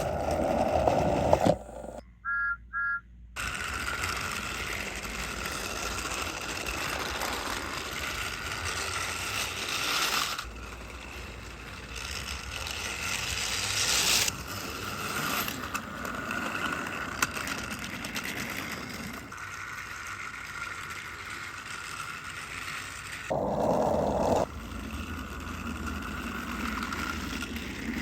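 Small electric motor of a battery-powered toy train running steadily along its track, a light whining whir with rattle. Two short beeps come about two seconds in, and a brief louder burst of noise about three-quarters of the way through.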